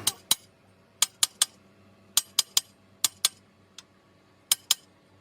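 Small metal parts or hand tools clinking: about a dozen sharp, irregular taps, some in quick pairs, each with a short ring.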